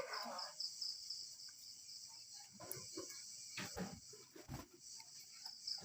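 Faint, steady high-pitched insect chirring in the background, with a few soft knocks and rustles around the middle.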